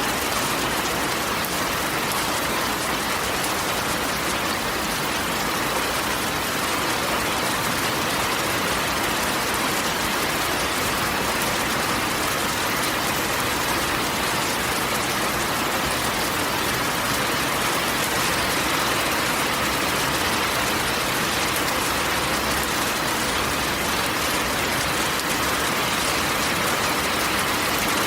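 Steady rain falling on a corrugated metal roof, an even, unbroken patter.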